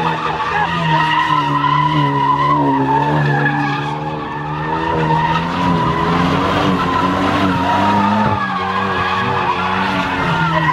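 A car spinning its tyres, the tyres squealing steadily over an engine held at high revs, its note wavering up and down.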